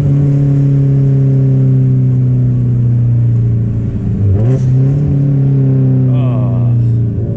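Subaru WRX STI's turbocharged EJ flat-four engine, running through a Tomei exhaust with a big turbo, droning steadily while driving. The engine note dips briefly about four seconds in, then picks back up. It is a raspy exhaust tone that the owner finds far too loud for this setup.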